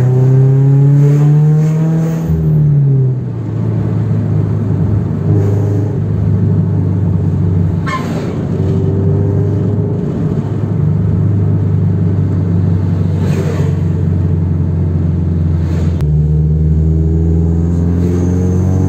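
Toyota 86's 2.0-litre flat-four engine heard from inside the cabin, revving up and then easing off about two seconds in. It then runs steadily under tyre and road noise, and pulls harder again with a slowly rising note near the end.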